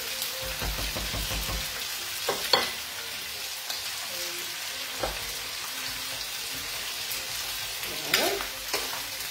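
Octopus pieces and sliced artichokes sizzling steadily in a wok over a gas flame, stirred with a wooden spoon, with a few sharp knocks against the pan.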